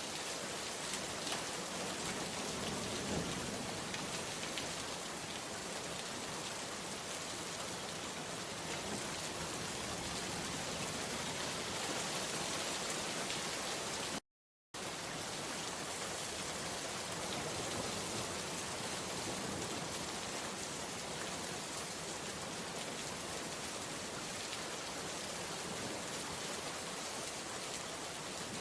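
Steady, even rainfall with faint scattered drop ticks. The sound cuts out completely for a fraction of a second about halfway through, then resumes as before.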